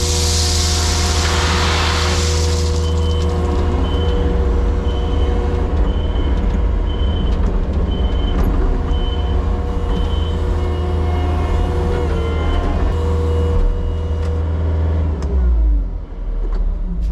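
Vehicle engine running with a steady low drone, a hiss in the first two seconds, and a short high beep repeating about every three-quarters of a second through the middle. Near the end the engine note drops.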